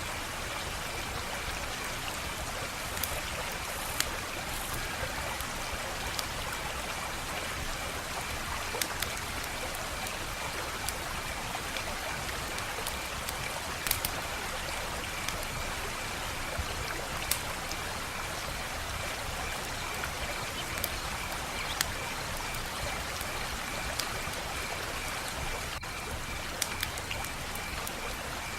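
Wood fire crackling: a steady hiss with scattered sharp pops and snaps, a few much louder than the rest. A faint, steady, high pulsing trill runs under it.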